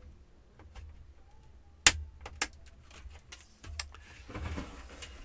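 Plastic clips on a Compaq F700 laptop's case snapping loose as a plastic panel is pried off: a loud sharp crack about two seconds in, a second one just after, a few fainter clicks, then plastic scraping and rubbing near the end. The snapping always sounds like the clips are breaking.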